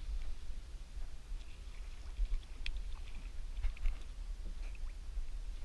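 Faint scattered ticks and light water sounds over a steady low rumble, as a cast net sinks after being thrown from a kayak.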